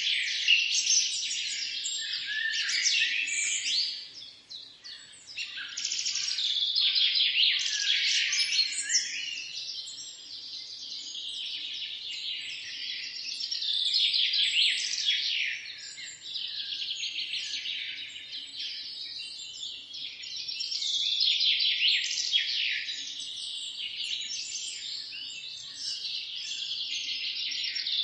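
A chorus of many songbirds chirping and singing at once, with dense overlapping quick notes and trills in a high register. It thins briefly about four seconds in.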